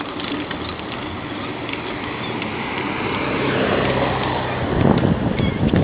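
A motor vehicle's noise, a steady rushing sound with a low hum that grows gradually louder.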